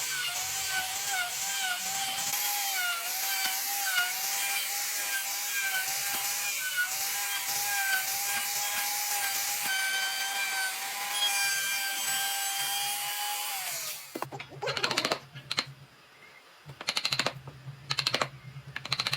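A handheld electric power tool running on wood, its motor whine steady with small dips in pitch as it is pressed into the work. It spins down about fourteen seconds in, and several short separate strokes on the wood follow.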